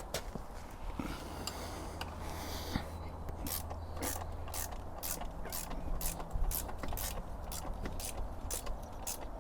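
Ratchet clicking in an even run, about two or three clicks a second, starting about three seconds in: a ratchet being worked to tighten the rear wheel spindle and chain adjuster nuts after the chain has been adjusted.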